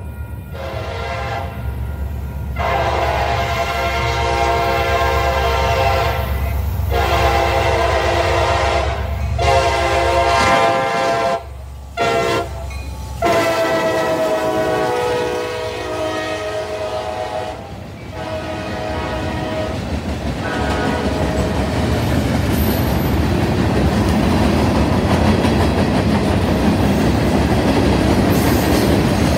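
A Kansas City Southern diesel freight locomotive sounds its air horn in a string of long blasts with brief breaks for the grade crossing, the last held for several seconds as it passes, over the low rumble of its engine. After the horn stops, the freight cars roll by with steady wheel-and-rail noise and clickety-clack.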